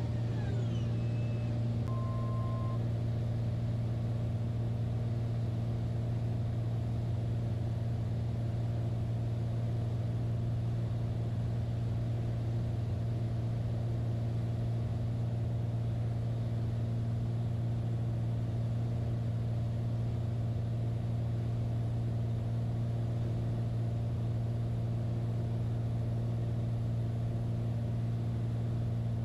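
Light aircraft's engine and propeller droning steadily, heard from on board, with a short two-pitch tone sounding briefly about two seconds in.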